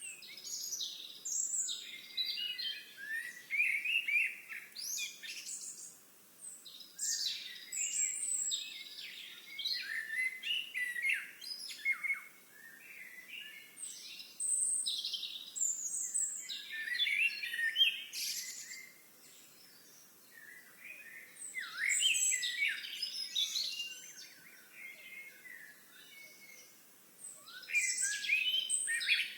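Songbirds singing and calling: bursts of varied high chirps and warbles from several birds, with short lulls between bursts.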